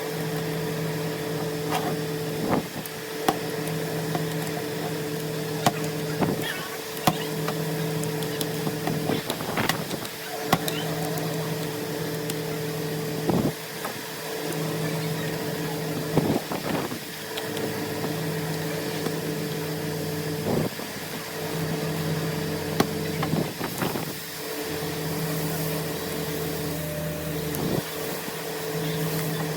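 Steady machine hum whose lowest tone pulses on and off every couple of seconds, with scattered knocks and clicks of metal parts being handled.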